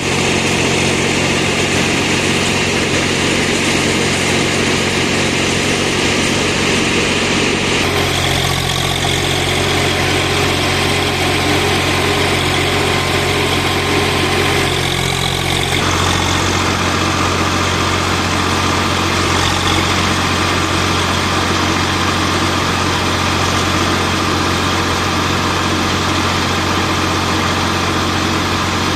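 Swaraj 735 FE tractor's three-cylinder diesel engine running steadily, its note shifting about eight and sixteen seconds in.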